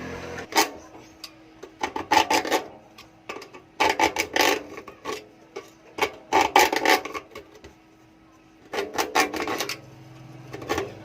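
Bursts of scraping and clattering, about six clusters a second or two apart, with a faint steady hum underneath.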